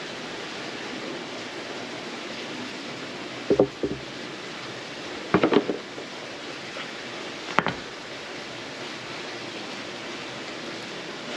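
Bird's-nest tinder bundle burning with a steady hiss, and a few sharp pops: one about three and a half seconds in, a quick cluster around five and a half seconds, and one near seven and a half seconds.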